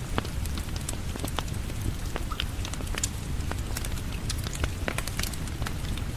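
Wood fire crackling with irregular sharp pops, over a steady rain-like hiss and low rumble.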